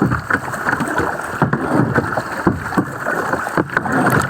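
Water sloshing and splashing around a kayak in irregular bursts, with wind buffeting the microphone.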